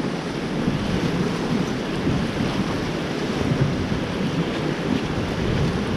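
Whitewater rapid rushing and splashing steadily around a paddled raft, with wind buffeting the microphone.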